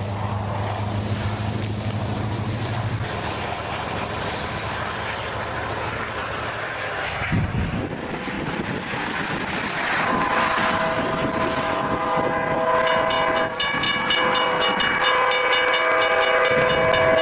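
A train ploughing through deep snow, with a dense rushing noise of engine and thrown snow and a low steady hum in the first few seconds. After a cut about eight seconds in, a train pushing a snowplow approaches through the drifts. Its multi-tone air horn sounds continuously from about ten seconds in, joined from about thirteen seconds by a rapid, even ringing beat.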